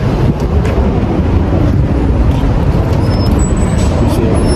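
Steady low rumble of outdoor street noise, like road traffic.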